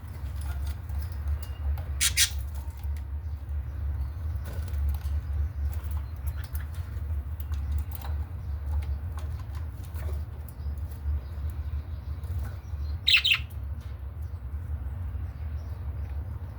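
Pet budgerigars flapping their wings in two short flurries, about two seconds in and again near the end, with scattered faint chirps and clicks between. A steady low hum runs underneath.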